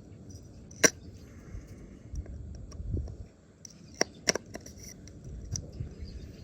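Handling noises as the old O-ring is worked off the oil filter housing cap: a sharp click about a second in, two more clicks around four seconds in, with low rustling and shuffling between.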